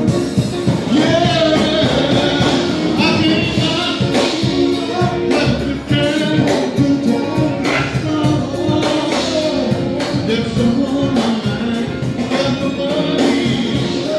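Live band of drums, bass, guitar and keyboard playing a song, with singing over a steady beat.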